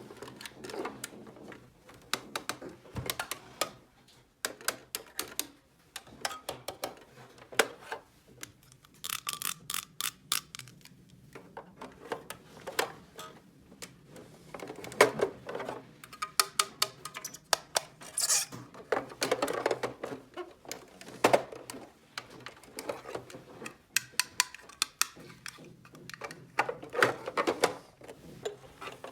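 Small plastic toy pieces being handled, with repeated clicking and clattering. A brief high-pitched tone sounds about nine seconds in.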